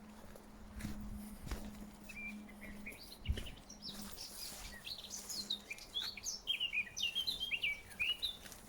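A songbird singing a rapid run of quick, varied chirping notes, growing denser and louder in the second half. A few dull thumps sound in the first few seconds.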